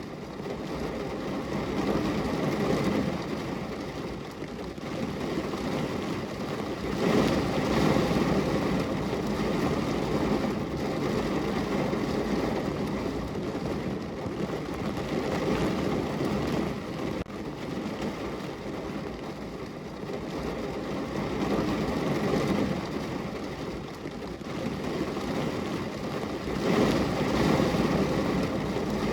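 Heavy rain falling on a car's roof, heard from inside the car: a steady hiss that swells louder and eases off in slow waves, strongest about a quarter of the way in and again near the end.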